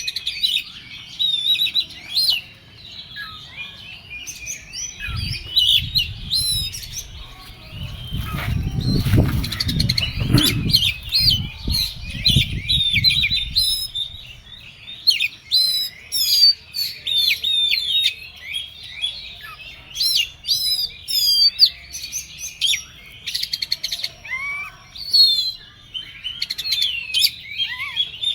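Oriental magpie-robin (kacer) singing continuously in a rapid, varied stream of high whistles, chirps and trills, the agitated, fired-up song that keepers call 'emosi konslet'. A low rumble runs under the song for several seconds in the first half.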